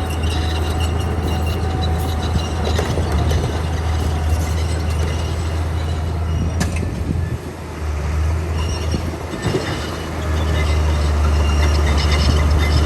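Komatsu D41P bulldozer's diesel engine running under load, with high metallic squeals from its steel tracks. The engine eases off about seven seconds in, then comes back up strongly about ten seconds in.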